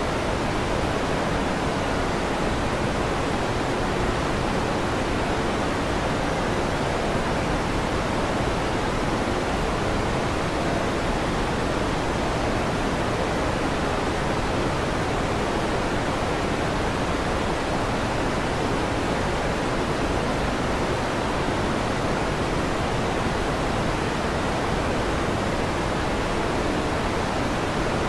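Electric fan running with a steady, even whoosh, constant in level.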